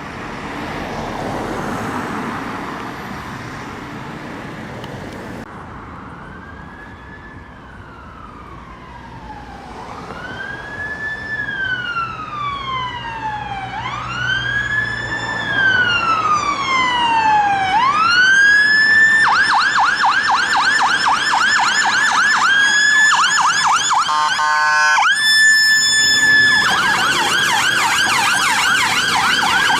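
British emergency vehicle siren drawing closer over traffic noise: a few seconds in it starts a slow wail, each sweep rising quickly and falling slowly, then switches to a fast yelp. About two-thirds of the way through comes a brief, very rapid warble and a short steady tone before the yelp resumes, loudest near the end.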